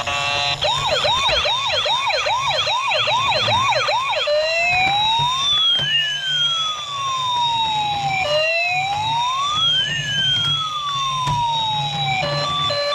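Toy police car's electronic siren: a fast yelp of about two and a half up-and-down sweeps a second, switching about four seconds in to a slow wail that rises and falls twice. Steady beeping tones start near the end.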